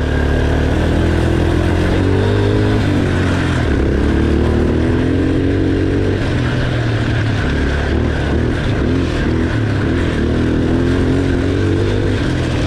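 Quad (ATV) engine running and revving, its pitch rising and falling over a steady loud drone.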